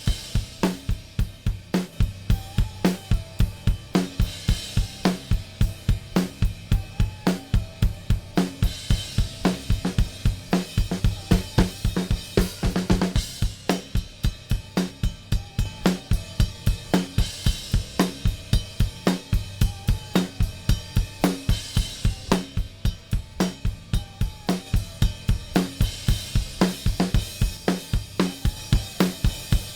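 Multitrack recording of a full drum kit playing a steady beat, with kick, snare, hi-hat and crash cymbals, heard through a stereo bus compressor set for light compression (2:1 ratio, 30 ms attack, 300 ms release) and switched in and out for comparison.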